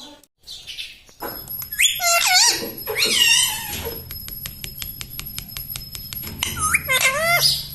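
A pet ring-necked parrot calling in three bunches of short calls that bend down and up in pitch, near the start, in the middle and near the end. A fast run of faint clicks and a faint high whine sound behind them.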